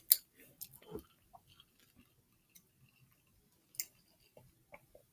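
A person chewing a mouthful of fried chicken sandwich close to the microphone: a few scattered short mouth clicks and smacks between quiet stretches.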